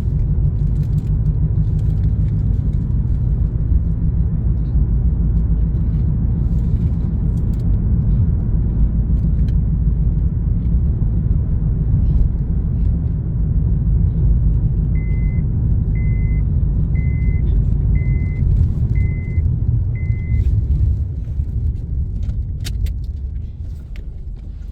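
Steady engine and road rumble inside a moving car. About two-thirds of the way through, the car's chime gives six short high beeps, about one a second, and the rumble drops away near the end.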